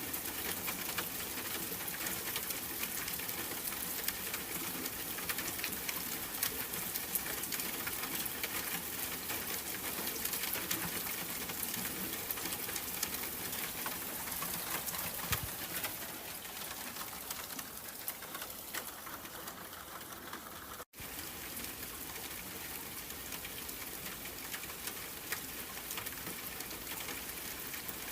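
Steady rain falling, a dense patter of drops. About two-thirds of the way through, the sound cuts out completely for a split second.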